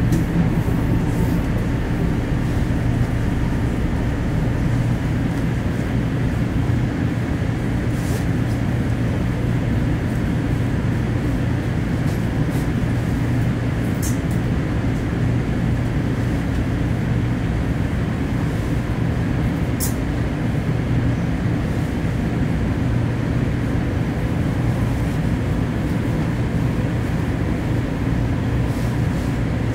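Steady low rumble of a Stockholm commuter train under way, heard from inside the carriage, with a few brief high ticks scattered through it.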